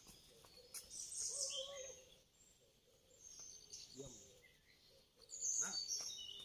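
Wild birds calling in the forest, faint high-pitched chirps and calls in a cluster about a second in and again near the end.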